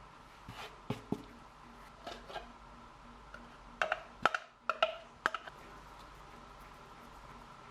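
Scattered light clicks and knocks in a few short clusters over a faint steady hum.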